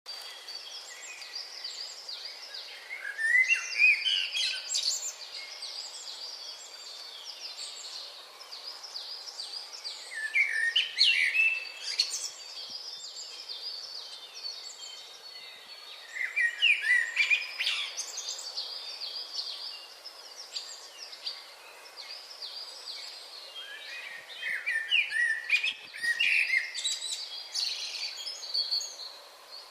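A songbird sings, with a loud phrase of about two seconds of quick high notes that drop in pitch, repeated four times at intervals of six or seven seconds. Other birds chirp steadily underneath.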